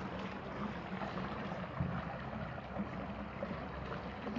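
Steady rush of flowing water with a faint low hum underneath.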